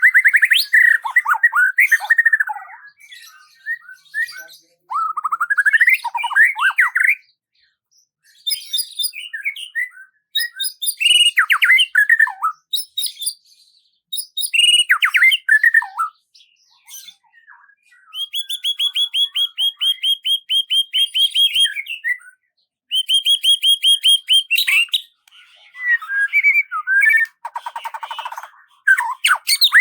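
Songbirds singing in a series of separate phrases: rapid trills, sweeping whistled notes and fast runs of repeated chirps, with short pauses between phrases.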